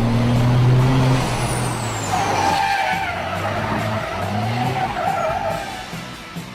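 Heavy truck's engine running under load, its low hum fading after about a second, then a wavering squeal from about two seconds in that lasts some three seconds.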